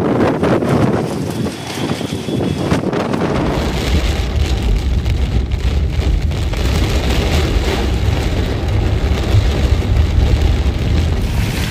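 Storm noise: wind buffeting the microphone with rain, and a heavy low rumble setting in about three and a half seconds in.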